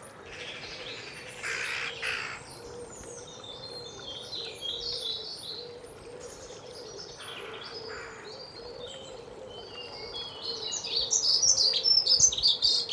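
Woodland birdsong: several small birds chirping and trilling, with a run of quick repeated high chirps in the middle and a louder, busier burst of song over the last couple of seconds.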